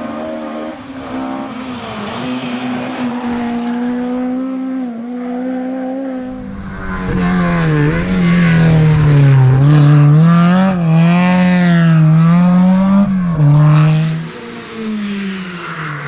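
Rally car engine at full throttle on a stage, first steady and farther off, then much louder about halfway in as the pitch climbs and drops through gear changes. It cuts down abruptly near the end, followed by a brief falling note.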